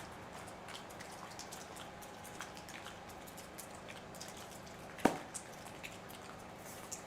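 Faint scattered clicks and taps of chainsaw parts being handled in a small room, with one sharp click about five seconds in and a lighter one just after.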